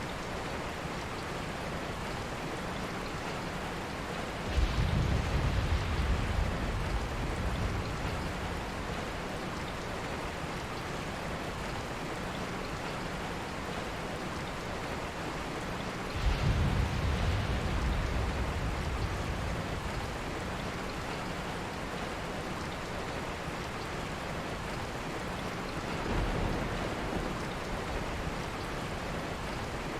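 Steady rain falling, with three rolls of low thunder: a sudden one about four seconds in, another about halfway through, and a softer one near the end.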